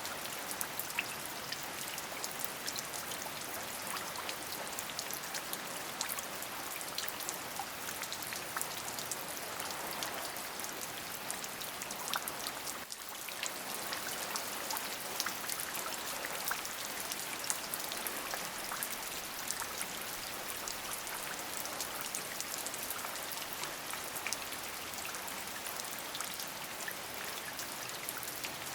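Steady rain: an even hiss with many individual drops ticking sharply, with a brief dip in level about halfway through.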